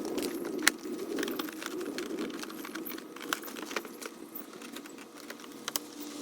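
Scattered light clicks and taps, the sharpest about a second in, over a low steady hum that slowly fades.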